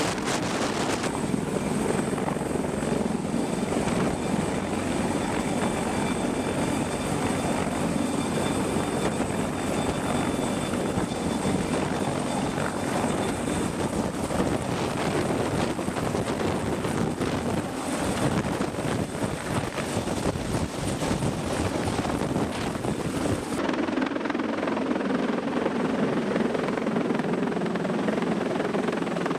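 Helicopter rotor and turbine engine noise, steady and continuous. It changes character abruptly about six seconds before the end, losing its highest hiss as at a cut to other footage.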